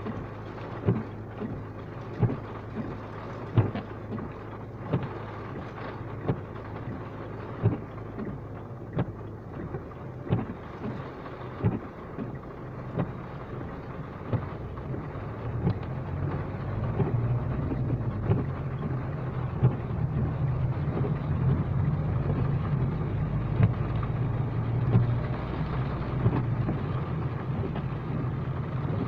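Rain falling, with frequent sharp drops tapping close by. A low rumble grows louder about halfway through.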